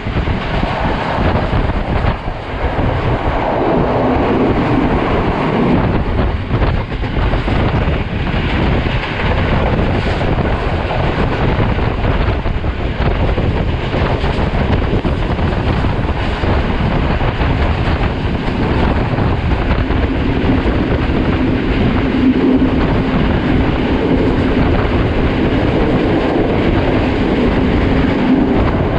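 Sri Lanka Railways passenger train running at speed, heard at an open coach window: a steady loud rumble of wheels on rail with clattering over the rail joints. A faint low hum rises under it twice.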